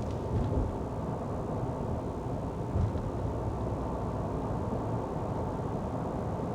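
Steady road and engine noise of a moving car heard from inside the cabin, with two brief faint bumps, about half a second and about three seconds in.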